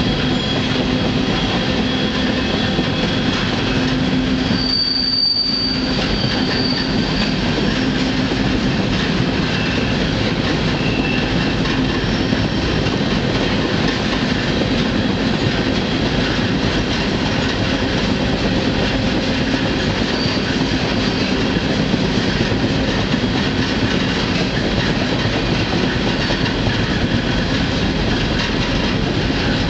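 Freight train rolling at speed, heard from aboard one of its cars: a loud, steady rumble of wheels on rail with faint wheel squeal, and a brief high squeal about five seconds in.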